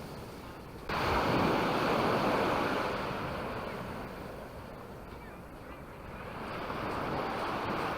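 Sea waves washing onto a beach, the surf swelling and receding, with wind buffeting the microphone. The level jumps suddenly about a second in and builds again near the end as another wave comes in.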